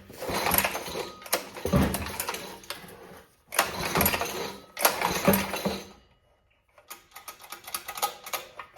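Old small engine being pull-started on choke: the stiff recoil starter is yanked and the engine turns over with a ratcheting clatter but does not catch. The clatter stops briefly about six seconds in, then resumes as quick clicks.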